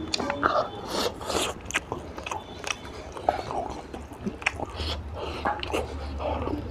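Close-miked eating: wet chewing and lip smacks with irregular sharp clicks as a person eats oily curry with the hand.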